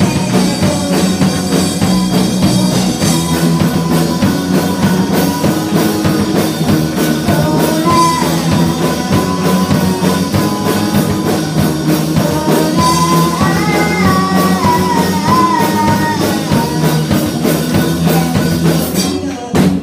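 Live rock band playing: drum kit, electric guitars and bass, with a wavering melodic line over the band in the middle. Just before the end the level drops briefly, then there is a sharp hit.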